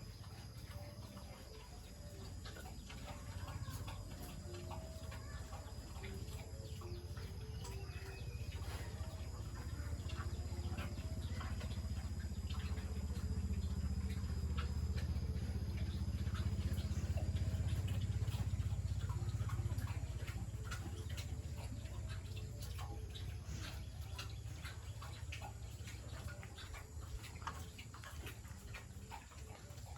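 Farmyard animal sounds: chickens clucking and small birds chirping, with scattered clicks. Under them a low rumble swells to its loudest about halfway through, then fades.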